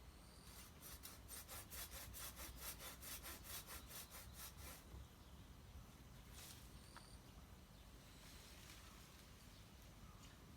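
Hand saw cutting through wood in quick, even strokes, about four to five a second, for some four seconds. A few fainter, slower strokes follow later.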